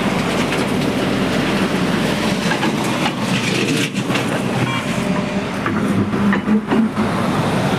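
Heavy diesel machinery running steadily, with a low hum and repeated metallic clanking and rattling.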